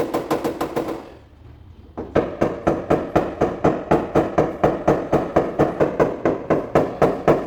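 Paintless dent repair hammer and knockdown tool tapping on the sheet metal of a hail-damaged car hood, working down the dents. Each tap rings briefly; a short fast run of taps stops about a second in, and after a pause a steady run of about five taps a second begins.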